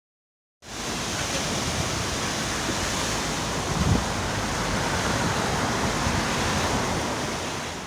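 Seaside wind buffeting the microphone over the steady wash of sea surf, starting about half a second in with a single low thump partway through.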